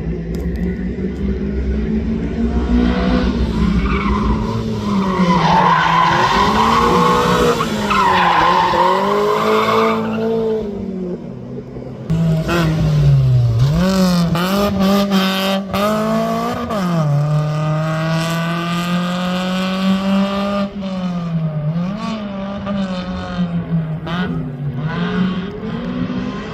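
Rally car engine revving hard, its pitch rising and falling with throttle and gear changes, with a run of quick upshifts about halfway through. Tyre squeal in the first half.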